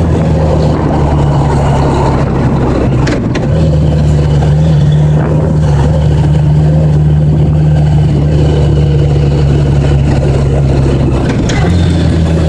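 1980s Honda Gold Wing motorcycle engine running steadily under way, with wind noise. A click and a change in the engine note come about three seconds in and again near the end.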